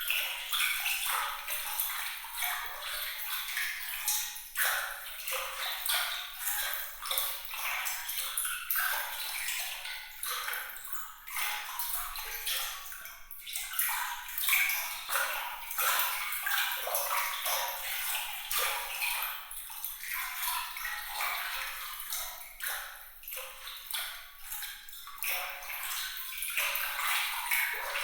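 Bright, glittering trickle of water made of many small splashes and droplets, its loudness flickering up and down throughout, with no low rumble.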